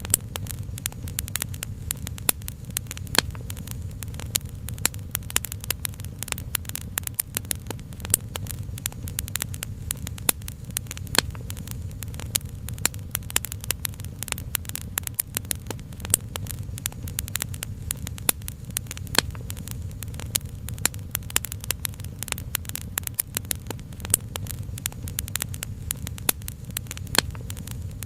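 Wood fire crackling, with many sharp pops and snaps at irregular intervals over a steady low rumble.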